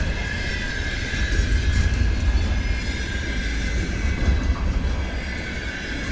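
Container train wagons rolling past, with a steady low rumble and a continuous high-pitched ring from the wheels on the rails.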